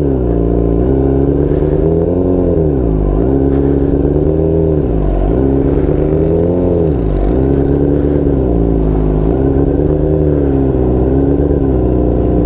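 Motorcycle engine running at low revs, its pitch dipping and rising again every couple of seconds as the clutch is let out and pulled in for a slow creep-and-stop.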